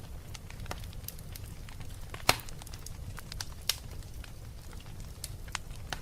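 Wood fire burning in a fireplace: a steady low rumble of flames with scattered crackles and pops, two of them louder, about two seconds in and near the middle.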